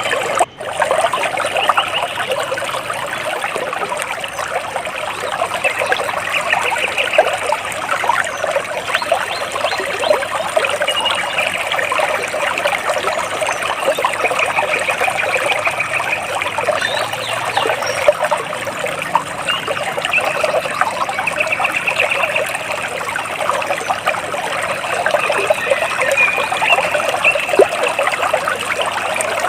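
Water splashing and trickling steadily, with birds singing over it in short repeated trills that come and go several times. The sound drops out for an instant about half a second in.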